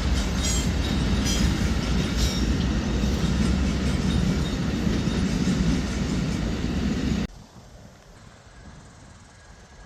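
Amtrak passenger train rolling past with a loud, steady rumble of wheels on rail. The sound cuts off abruptly about seven seconds in, leaving only faint background.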